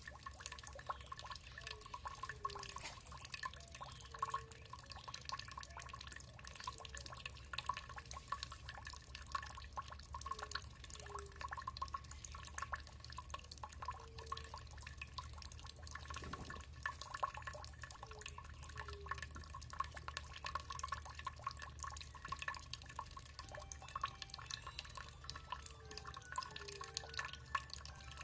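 Water dripping and trickling: a dense, continuous patter of small drips with short low plops scattered through, over a steady low hum.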